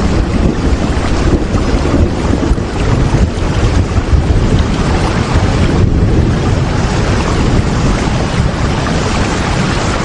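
Steady rain: a dense, even hiss with a strong low rumble beneath it.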